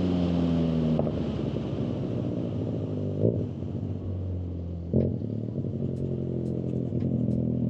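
Motorcycle engine whose revs ease down in the first second and then settle into a steady idle, with two short clicks about three and five seconds in.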